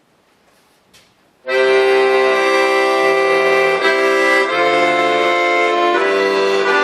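Bayan (Russian button accordion) starting to play about a second and a half in, after near quiet: full held chords that change every second or so.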